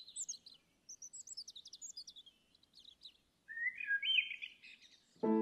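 Birdsong: several quick, high chirps and twitters, then a louder, lower warbling phrase a little past halfway. A sustained piano chord comes in just at the end.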